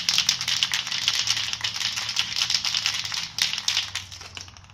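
Aerosol spray paint cans rattling and clinking as they are handled, a dense run of quick rattles that dies away shortly before the end.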